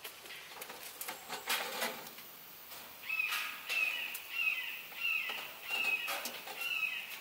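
A bird chirping over and over: about seven short, high calls in four seconds, each falling in pitch, after a few light clicks and knocks.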